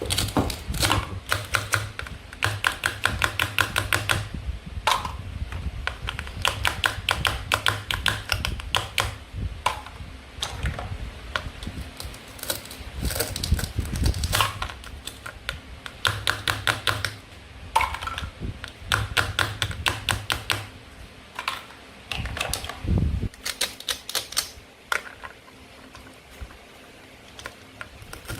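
Hard plastic clicking in quick runs of several sharp clicks a second, broken by short pauses and a single lower thud: toy play-food pieces being cut and handled.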